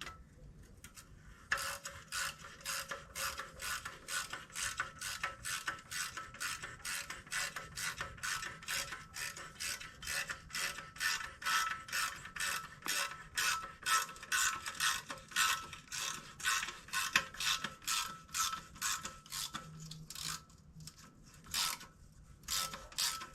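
Hand ratchet wrench clicking steadily, about three clicks a second, as a bolt is run in; it stops briefly near the end, then clicks a few more times.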